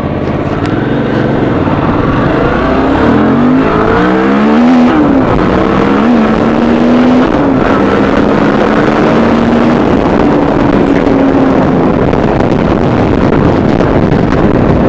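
Suzuki V-Strom 650's V-twin engine accelerating hard through the gears, the note climbing and dropping back at each upshift over the first five or six seconds, then holding a steady note as the bike cruises.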